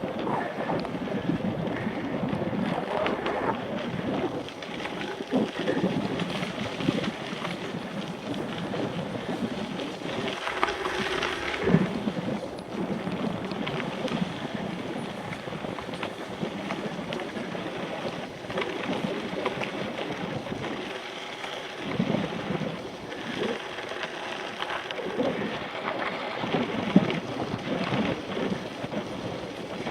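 Mountain bike riding over rough ground: continuous rumbling noise with irregular knocks and rattles, and wind buffeting the action camera's microphone.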